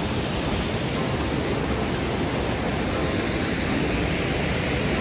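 Waterfall's falling water rushing steadily, an even noise with no breaks.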